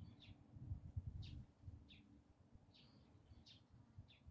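Near silence with a small bird chirping faintly: about six short, high chirps, each half a second to a second apart, over faint low noise.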